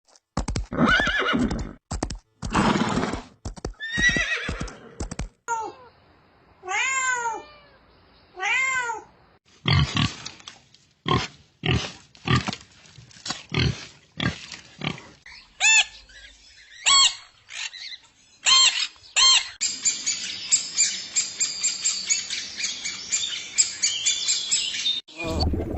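A run of different animal calls, one kind after another: short noisy cries at first, then three rising-and-falling pitched calls, then sharp single calls, and near the end a dense, fast chorus that stops abruptly.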